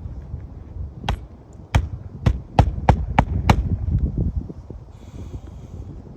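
About seven sharp knocks in quick succession, unevenly spaced over two and a half seconds, over a low rumble.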